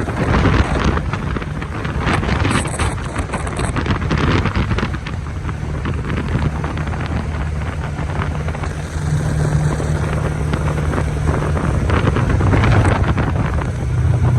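A vehicle's engine running steadily, with wind buffeting the microphone.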